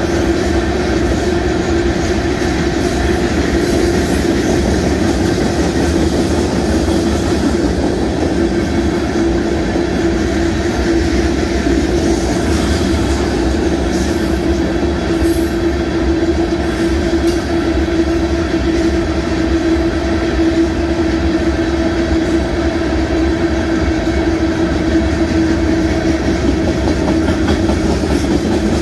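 Freight train of open-top gondola cars rolling past at a steady speed, the steel wheels running over the rails in a loud, even, unbroken noise.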